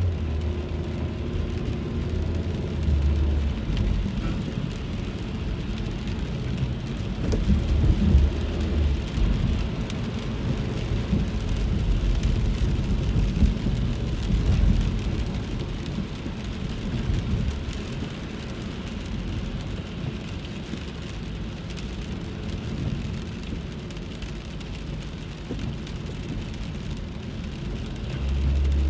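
Rain falling on a car, heard inside the cabin while driving, as a steady hiss over the low rumble of the car and its tyres on the wet road.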